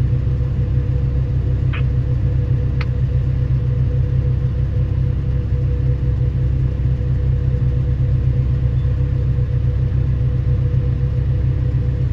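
Heavy diesel engine of mining equipment running steadily: a deep, even low drone with a constant hum above it. Two brief faint ticks come about two and three seconds in.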